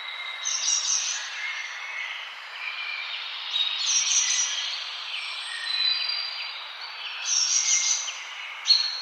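Several forest birds chirping and singing over a steady hiss, with denser, louder bursts of high chirping every few seconds.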